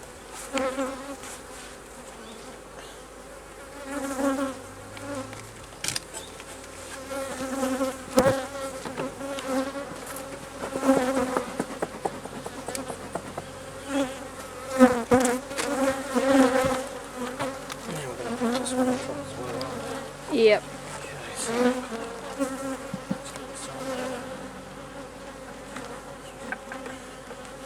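Honey bees buzzing around an open hive, the hum swelling and fading as individual bees fly close past, with a few sharp knocks of hive parts being handled.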